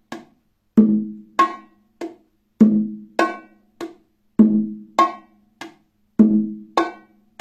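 Bongo drum played by hand in a repeating three-stroke pattern of bass, high and medium strokes, about four rounds in steady time. Each round is a loud bass stroke, a sharper, brighter high stroke and a weaker medium stroke.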